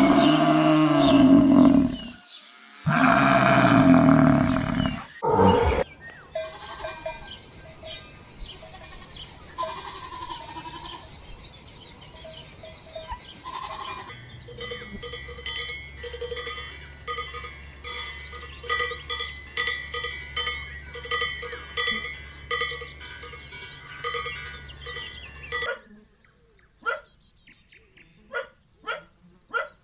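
Livestock: two loud, drawn-out calls in the first few seconds, then a long stretch of bells clanking rapidly over a low steady hum, ending with a few sharp clicks.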